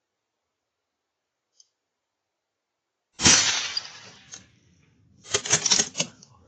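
A single sharp crack about three seconds in that dies away over about a second, then a short cluster of crackling clicks near the end.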